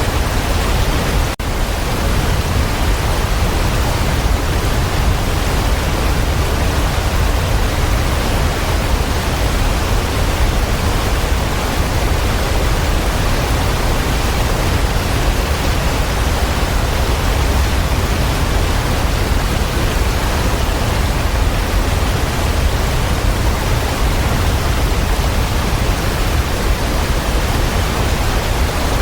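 Waterfall: a steady, dense rush of falling water, heaviest in the low rumble, with one split-second dropout about a second and a half in.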